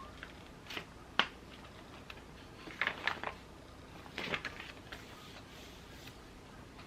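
Desk handling sounds from journaling supplies: a sharp click about a second in, then two short bunches of rapid taps and rustles near three and four seconds in.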